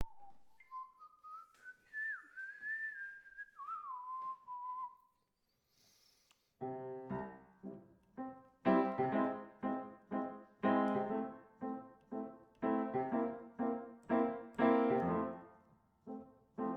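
Whistling a short melody alone, then piano chords struck one after another, each dying away, from about six and a half seconds in.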